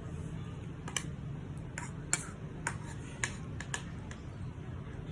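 A spoon clicking against a bowl of porridge, about seven light, unevenly spaced clicks, over a steady low hum.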